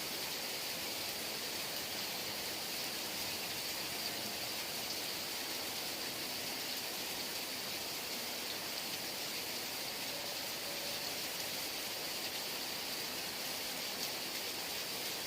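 Heavy rain falling steadily: an even, unbroken hiss with no let-up and no thunder.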